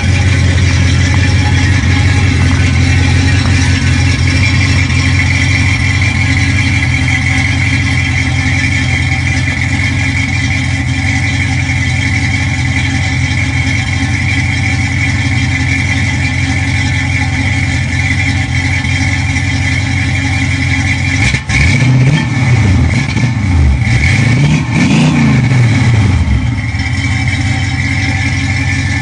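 Classic Ford Mustang fastback's engine idling steadily and loudly, then blipped through several quick revs about three-quarters of the way through, the pitch rising and falling each time, before settling back to idle.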